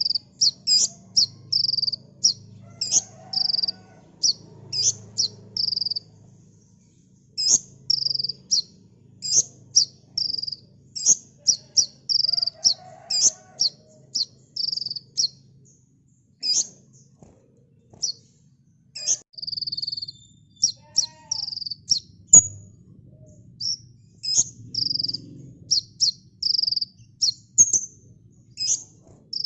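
Sunbird ('kolibri ninja') singing long runs of rapid, short high chirps and trill notes, packed closely together with only brief pauses. There is a faint low hum underneath, and a single sharp click a little past the middle.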